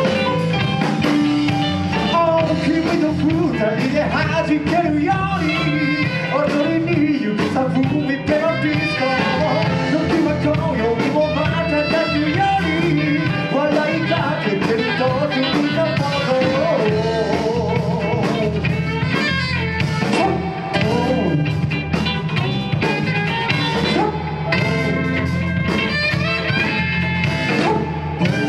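Live band playing a blues-rock number: guitar over a steady bass and drum groove, with a melodic line that may be sung.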